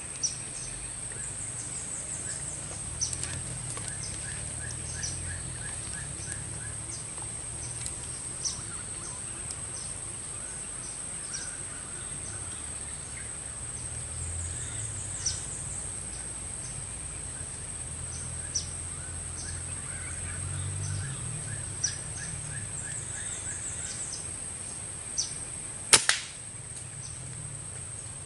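Steady high-pitched insect drone with scattered short clicks, and a single sharp crack about 26 seconds in.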